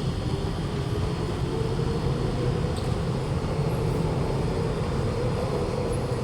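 Alstom Movia R151 metro train running: a steady low rumble with a faint motor tone held through most of it.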